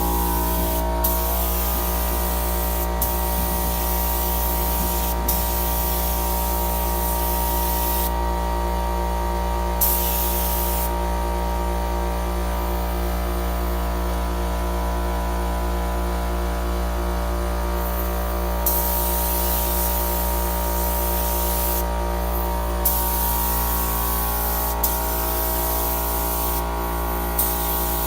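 Pneumatic paint spray gun spraying an engine bay in repeated trigger pulls, each a hiss of one to three seconds, with short breaks between. Beneath the spraying runs a steady low hum.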